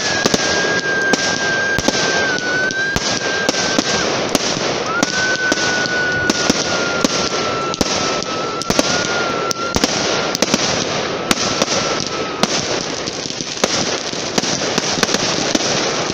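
Fireworks going off, with rapid crackling pops over a steady hiss. A long high whistle is held and slowly drops in pitch, breaks off about four seconds in, and a second one sounds from about five seconds to twelve.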